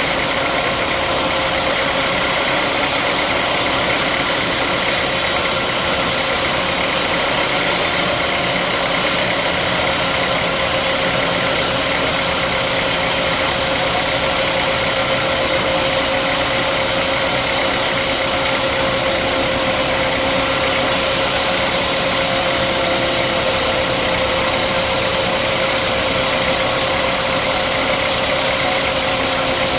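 Engine-driven sawmill machinery running steadily: a constant loud mechanical drone with one steady held tone and no change in speed.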